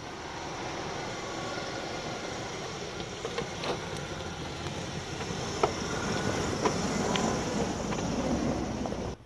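Range Rover Classic driving in, its engine running steadily and getting a little louder as it comes, with a few faint sharp knocks along the way. The sound cuts off suddenly near the end.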